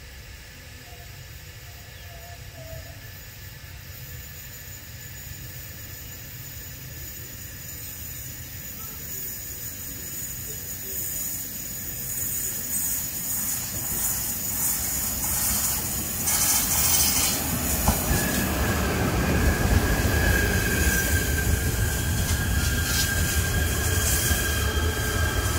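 KTM Komuter Class 92 electric multiple unit approaching along the platform, growing steadily louder. About two-thirds of the way through, a hiss comes in and a steady high tone joins it as the train draws close.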